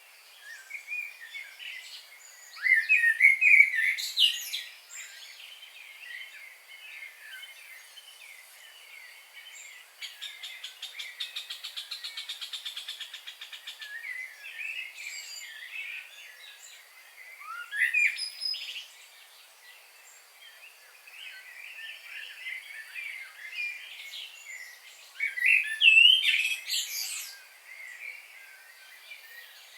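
Several birds singing and calling in chirps and short phrases, with loud bursts of song about three seconds in and again near the end. A fast, even trill runs for about four seconds in the middle, and one call sweeps sharply upward. A faint steady high tone sits behind it all.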